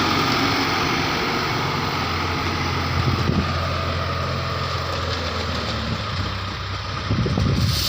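Heavy diesel engine running steadily at a low, even speed, with a few brief louder knocks about three seconds in and again near the end.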